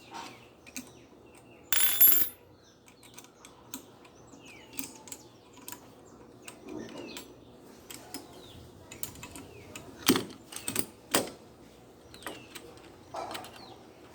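Irregular clicks and knocks of metal parts and tools being handled while a washing machine motor is put together, with a loud ringing metallic clatter about two seconds in and two sharp knocks later on.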